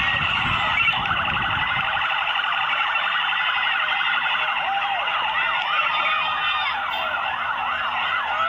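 Several vehicle sirens sounding at once, their rising and falling wails overlapping. A low rumble underneath stops about two seconds in.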